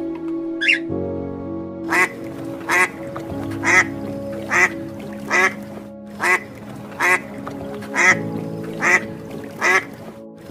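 A duck quacking over and over, about one quack a second, ten quacks in a row, over steady background music.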